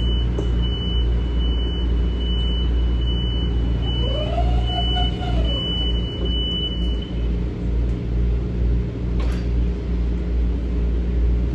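Steady low rumble and hum inside an M7A electric railcar. A high beep repeats about once every three-quarters of a second until about seven seconds in.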